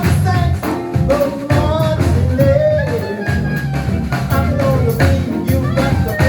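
Live band playing a New Orleans-style tune, with drums and a wavering lead melody line, possibly a voice.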